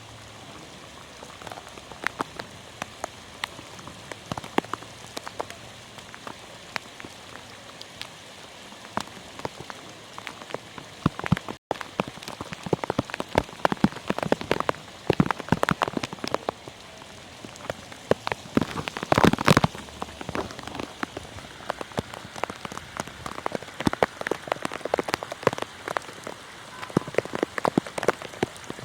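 Heavy rain falling, a steady hiss with many sharp drops striking close by. The drops grow denser and louder after a brief cut-out about twelve seconds in.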